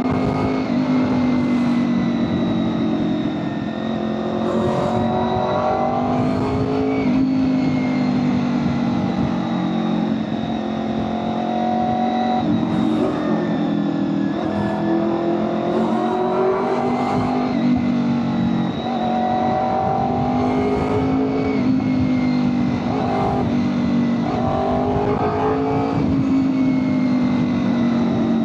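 Honda VFR800FI's V4 engine running at road speed, its pitch climbing and dropping several times as the bike accelerates and eases off, under heavy wind noise buffeting the helmet microphone.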